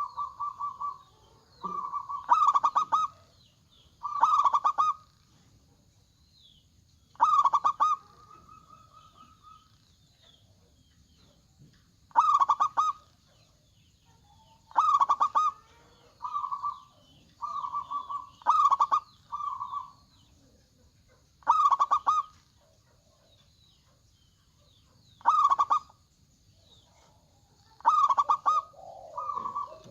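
Zebra dove (perkutut) song: about a dozen short, fast stuttering coos, each around a second long, some trailing into a held note, repeated with gaps of one to four seconds.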